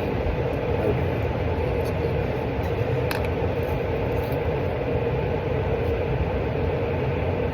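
A steady droning noise with a faint steady tone in it, and one sharp click about three seconds in.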